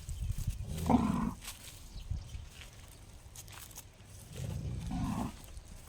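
Cow calling twice, a short call about a second in and a longer one near the end, with a strange gong-like sound.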